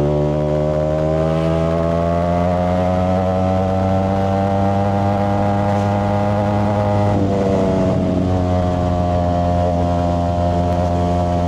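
Ducati Streetfighter V4S's 1103 cc V4 engine running through a Zard aftermarket exhaust. The engine note climbs slowly for about six seconds, dips a little about seven seconds in, then holds steady.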